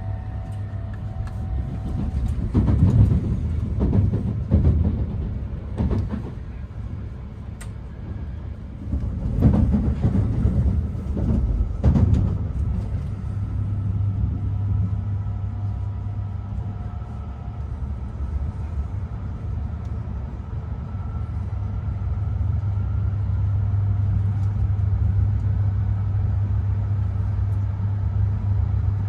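Inside a Shinkansen car, the train's steady low running rumble, with a handful of knocks in the first dozen seconds and faint steady whining tones. The rumble grows slightly louder towards the end.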